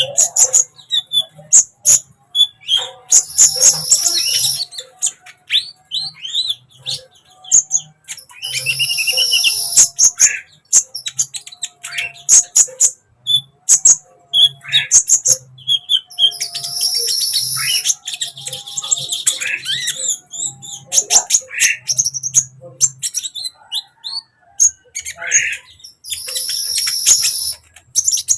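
Kolibri ninja sunbird singing: rapid, high chirps and short trills, broken four times by a loud, high buzzy rattle lasting about a second and a half.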